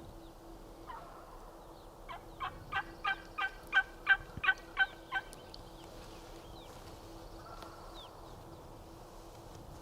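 A run of about ten turkey yelps, roughly three a second, swelling in loudness and stopping after about three seconds.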